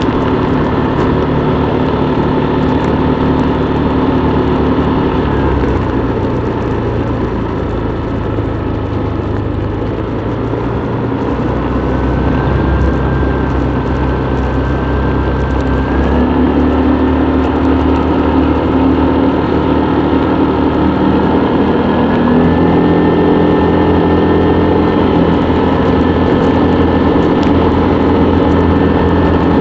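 Motorbike engine running during a ride, steady, its note shifting in steps a few times as engine speed changes.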